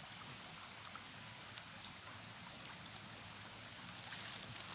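Faint outdoor ambience: a steady high-pitched insect drone over a low hiss, with a few faint rustles or water sounds near the end.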